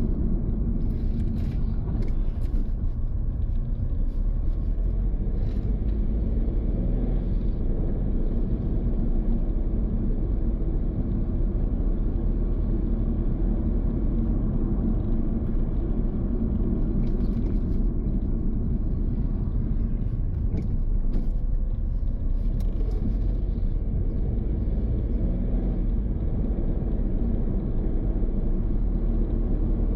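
Car driving along a road: a steady low rumble of engine and tyre noise, with a few faint clicks about a second in and again around two-thirds of the way through.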